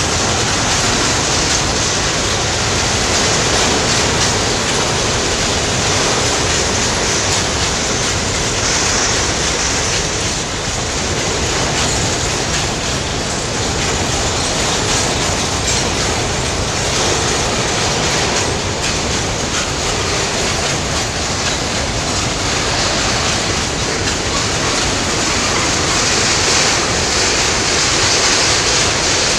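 Freight train wagons rolling past at close range: a steady, loud rolling noise of steel wheels running on the rails.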